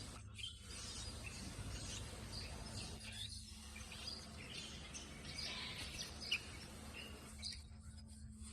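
Small birds chirping in short, scattered calls over a steady background hiss and low hum, with one sharper chirp about six seconds in.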